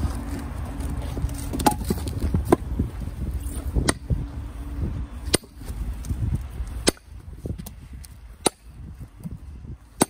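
Firewood being split: a sharp chopping strike on the wood about every one and a half seconds, six or seven in all, over a low rumble that fades about seven seconds in.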